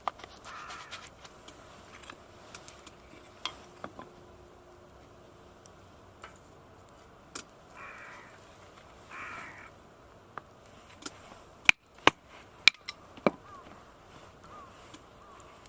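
A crow cawing: a call at the start, then two more about eight and nine seconds in. About twelve seconds in comes a quick run of five sharp, loud cracks.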